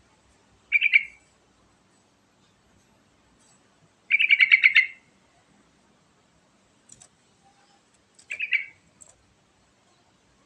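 Yellow-vented bulbul (trucukan) singing three short phrases of rapid notes about four seconds apart, the middle one the longest and loudest.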